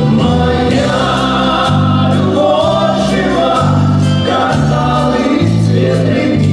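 A vocal-instrumental ensemble performing a pop song: several voices singing together over the band, with a bass line that steps from note to note about once a second.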